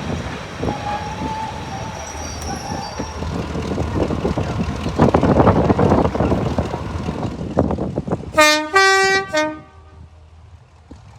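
Class 35 Hymek diesel locomotive running at the platform, then its two-tone horn sounds once, about a second long and switching between two notes, as it prepares to depart.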